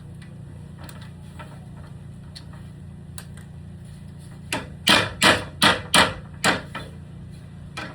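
A quick run of about seven hammer blows on a ladder being repaired, coming a little under three a second about halfway through, followed by one fainter knock near the end.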